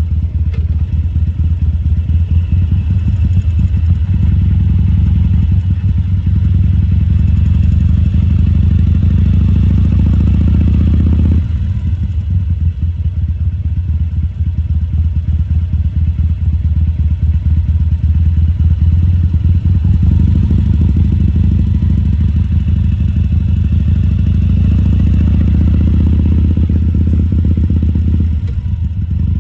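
2014 Harley-Davidson Sportster 1200 Custom's air-cooled V-twin running at low parking-lot speed with a steady pulsing exhaust beat. The engine note builds under throttle, drops off sharply about eleven seconds in, builds again later and eases off near the end.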